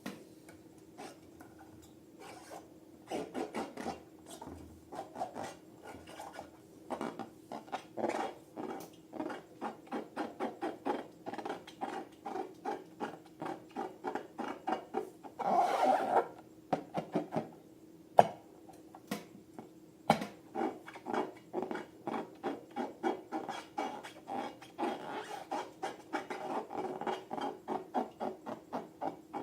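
Slime being stirred and worked in a bowl: a steady run of quick rubbing, scraping strokes, about two to three a second, with one longer, louder stroke about halfway through and a couple of sharp clicks soon after.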